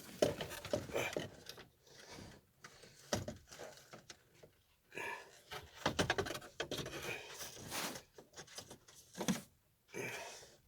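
Scattered plastic clicks, knocks and rustling from hands working an aftermarket car radio's wiring harness and antenna plug into the dash opening, with short quiet gaps between.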